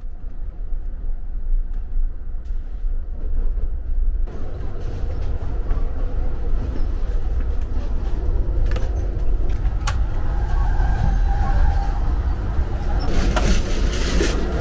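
Amtrak Empire Builder train rolling along, a steady low rumble heard inside the passenger car, with a few sharp knocks and rattles. About thirteen seconds in it grows louder and harsher as the open vestibule between two cars is crossed.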